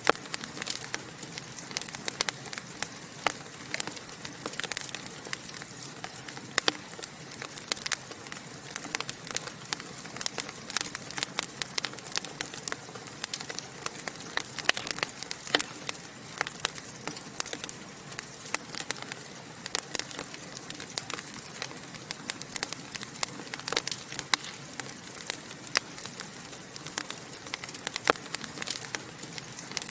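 Wood fire burning in a fireplace: a steady hiss with many small irregular crackles and pops.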